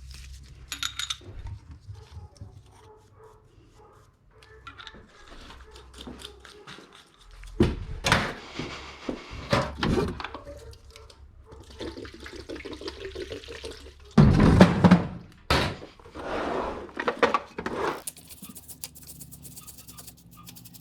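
Several bursts of spraying liquid, each a second or two of loud hissing, with light clicks and clatter of parts being handled between them, as motorcycle parts and the chain are cleaned.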